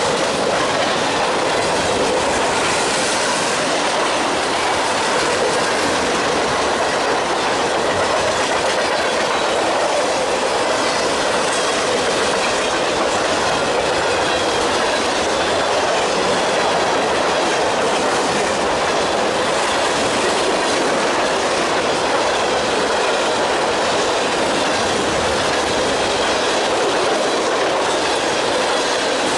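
Covered grain hopper cars of a Canadian Pacific freight train rolling past close by: a steady, loud rolling noise of steel wheels on the rails, unchanging throughout.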